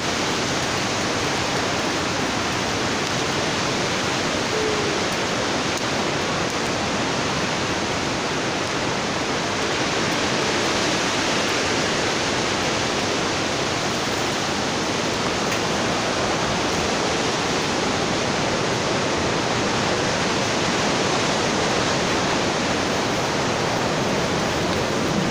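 Strong typhoon wind blowing in a steady, unbroken rush of noise.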